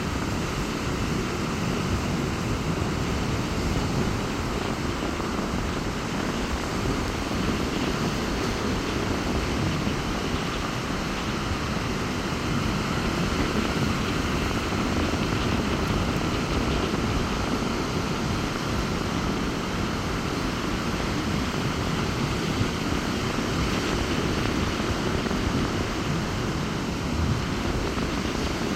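Sea surf breaking on a beach in strong wind, with the wind buffeting the microphone: a steady low rumble under a constant hiss, with no single wave standing out.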